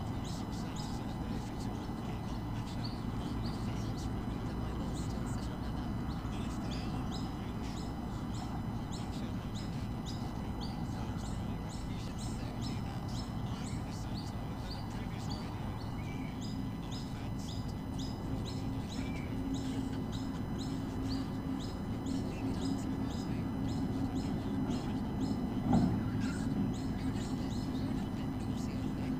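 Small birds chirping in quick, repeated high notes over a steady low rumble, with a brief thump near the end.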